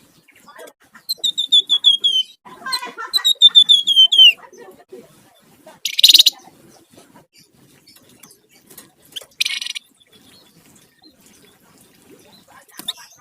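Flamboyan songbird (wergan jawa) singing: two quick runs of clear whistled notes that step down in pitch, with a harsh chatter between them. Two short harsh rasping calls follow, a few seconds apart.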